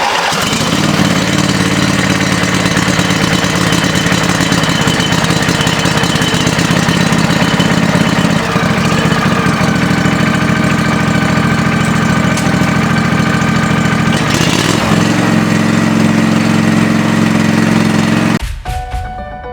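Riding mower engine catching on a cold start, about half a second in, then running steadily on choke at half throttle. Its note shifts a couple of times before it cuts off near the end.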